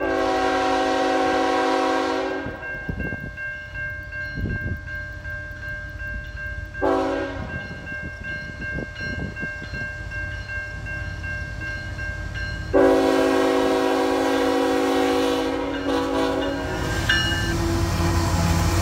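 Diesel locomotive's multi-chime air horn sounding three blasts, long, short, long, over the rumble of the passing train.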